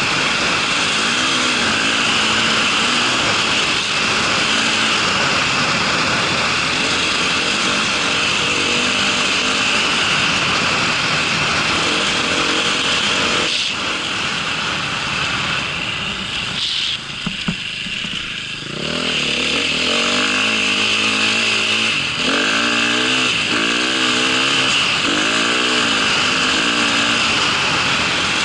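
A small vehicle's engine running under load, its pitch rising and falling as the throttle changes. It eases off between about 14 and 19 seconds in, then revs up again in short repeated surges.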